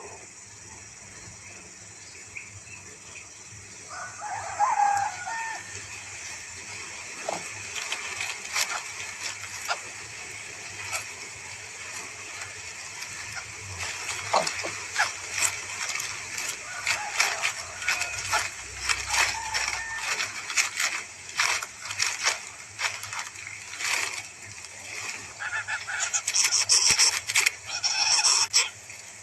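A bird call about four seconds in, then a long run of irregular sharp clicks and taps, with a shrill high-pitched sound near the end.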